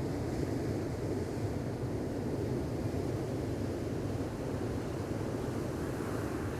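Gentle ocean waves washing on a beach, heard as a steady low rumble of surf with some wind on the microphone.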